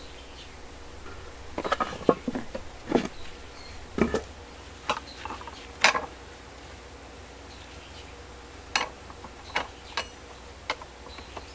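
Irregular knocks and clinks of steel rebar being handled and worked: a quick cluster of strikes in the first half, then a few single clinks later, over a steady low hum.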